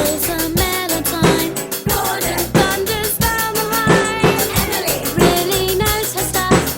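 Acoustic drum kit played along to a recorded pop song, with many bass drum and snare strikes over the track's melody.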